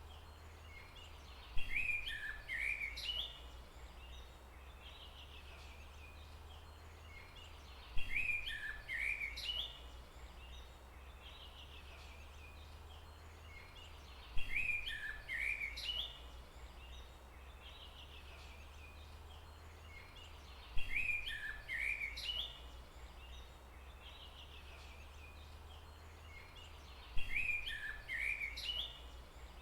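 A songbird singing the same short chirping phrase, repeated five times at about six-and-a-half-second intervals, over a steady low hum.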